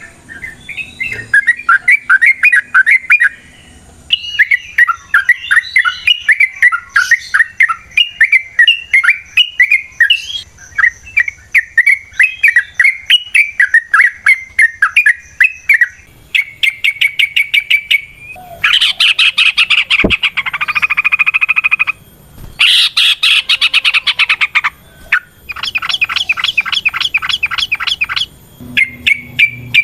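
Yellow-vented bulbul (trucukan) singing loudly: bubbly, chattering phrases for about the first half, then long runs of very fast rattling notes.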